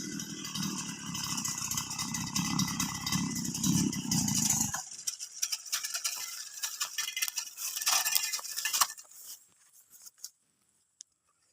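Motor grass cutter (brush cutter) engine running, then cut off sharply about five seconds in. A rattling, clinking noise goes on for a few seconds more before it goes almost quiet.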